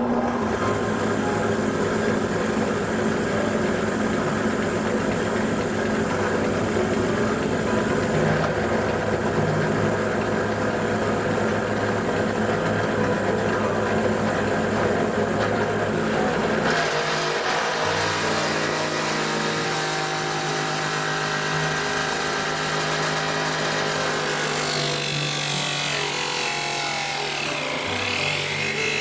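Electric power tool running steadily while working a wooden board. Its pitch and tone change about two-thirds of the way through, and a high sweeping whine comes in near the end.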